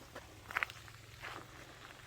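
Footsteps of a person walking on a path: two steps, about three-quarters of a second apart.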